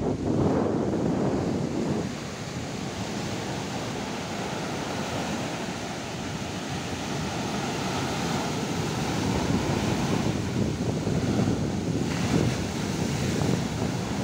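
Large ocean waves breaking and washing up the beach at high tide, with strong wind buffeting the microphone.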